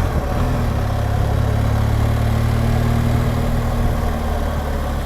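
BMW R1200GSA's flat-twin engine running steadily while the motorcycle is ridden, heard from the bike.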